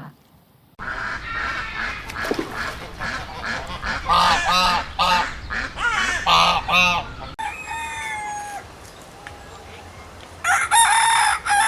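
Chickens calling: a run of short clucks and squawks, then after a break one loud crow near the end.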